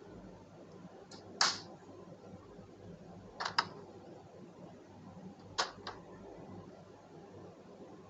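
A few short, sharp clicks or knocks, several in close pairs about two seconds apart, over a faint steady background.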